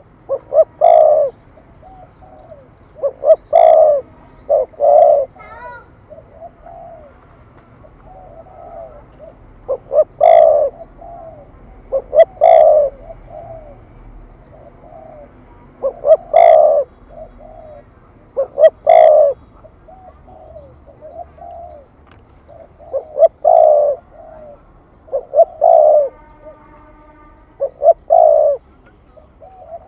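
Spotted dove (cu gáy) cooing in the deep 'thúc gù' style: loud phrases of two or three short coos repeated every two or three seconds, with softer coos in between.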